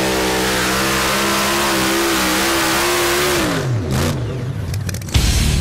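Pulling tractor's engine running hard at high, steady revs, then winding down with falling pitch about three and a half seconds in. Loud music cuts in near the end.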